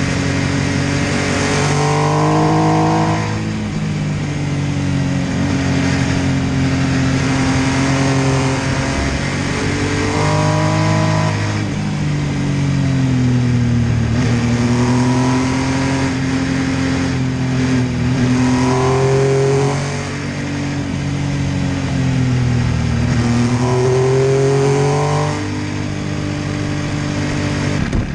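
MV Agusta F3 800's three-cylinder engine pulling under load, its revs climbing and dropping back about five times as the bike accelerates and changes gear, over a steady rush of wind noise.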